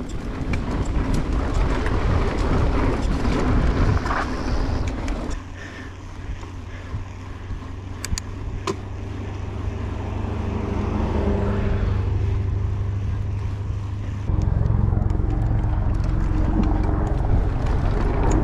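Wind rushing over the microphone and tyre noise from a mountain bike being ridden along a trail, with a few sharp knocks about eight seconds in. The rushing gets louder near the end.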